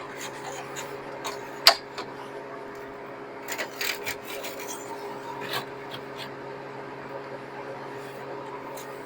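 Trays being handled and slid into place: scattered light clicks, knocks and scrapes, the loudest a sharp knock a little under two seconds in, over a steady low machine hum.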